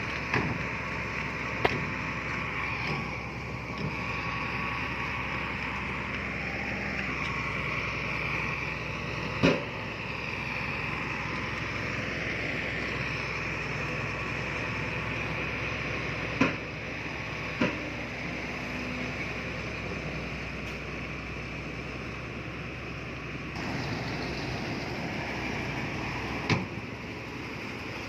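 Heavy earthmoving machinery's diesel engine running steadily, with a handful of sharp knocks scattered through it.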